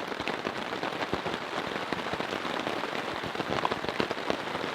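Heavy rain pounding on a tarp shelter overhead: a dense, steady patter of countless drop impacts, loud enough that the speaker calls it insanely loud.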